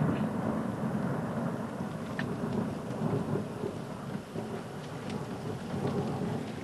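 Thunderstorm downpour of heavy rain and marble-sized hail, with a low continuous rumble of thunder. A few sharp ticks of hailstones striking stand out.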